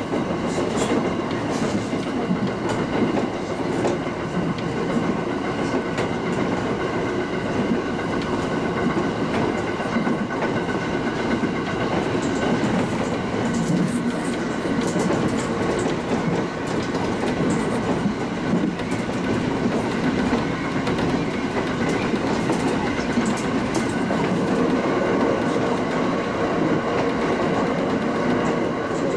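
Local passenger train running steadily along the track, heard from inside the front car: a continuous wheel-and-rail rumble with a steady hum of tones over it and occasional faint clicks from the rails.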